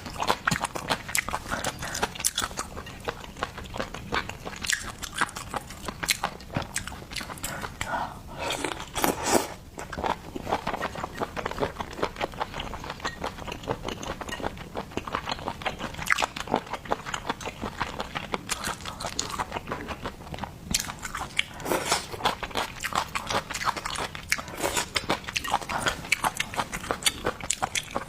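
Close-up mouth sounds of a person eating seafood: wet chewing and biting with many quick, irregular clicks, smacks and crunches.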